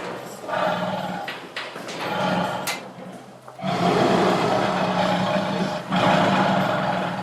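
Tiger roaring and growling in a series of calls; the loudest, a long roar of about two seconds, comes halfway through and is followed by another.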